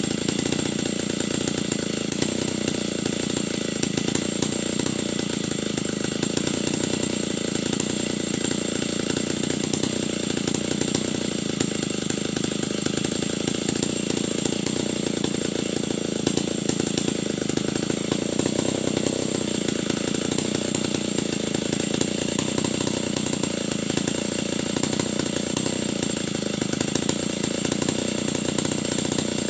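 Stihl 070 large two-stroke chainsaw running steadily at a constant pitch and loudness, as when ripping timber lengthwise into thin boards.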